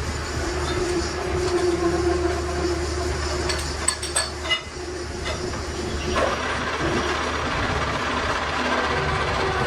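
Steady workshop machinery noise with a low hum, broken by a few sharp metal clanks about four seconds in; the noise turns brighter and harsher about six seconds in.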